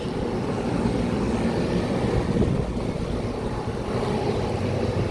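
Several air-conditioning condensing units running in cool mode together: condenser fans and compressors making a steady mechanical hum with fan noise.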